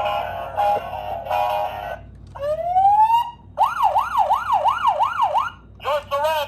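Electronic sound effects from a Road Rippers toy police motorcycle: a short electronic tune, then a single rising siren sweep, then a wailing siren going up and down about two and a half times a second, switching to a faster yelp near the end.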